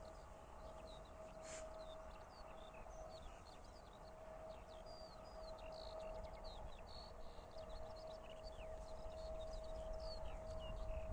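Many small birds chirping and singing in quick, overlapping calls, over a faint steady single-pitched hum.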